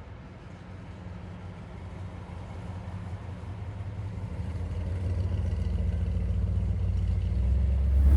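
1956 Ford Thunderbird's V8 engine running at a steady pace, its low rumble growing steadily louder.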